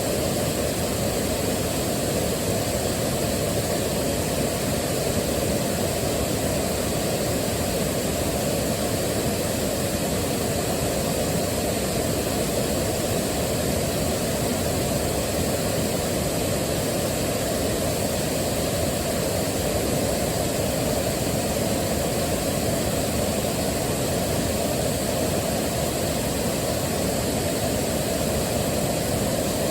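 Waterfall rushing in a steady, unbroken stream, most of its weight low and middle in pitch.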